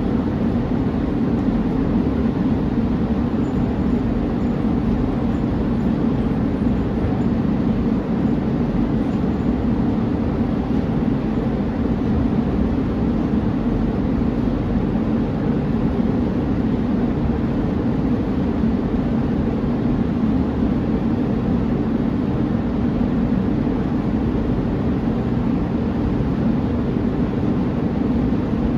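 City bus diesel engine idling steadily, an even low drone with no change in speed.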